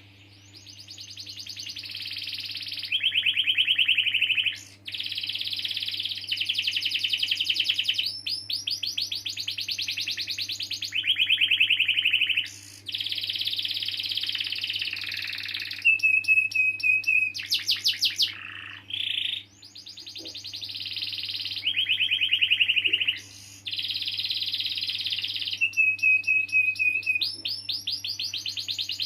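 Domestic canary singing a long, unbroken song of rolls and rapid trills: runs of quickly repeated notes that switch to a new phrase every few seconds, twice settling into a short held whistle. A faint steady low hum lies underneath.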